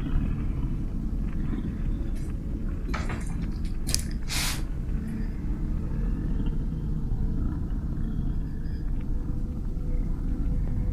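Steady low rumble, with brief rustling hisses about three and four seconds in.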